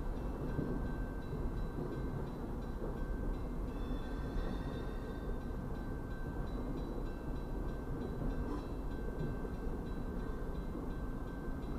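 Double-stacked intermodal freight train cars rolling past: a steady rumble of steel wheels on the rails, heard from inside a parked vehicle's cabin, with one brief clank about two-thirds of the way through.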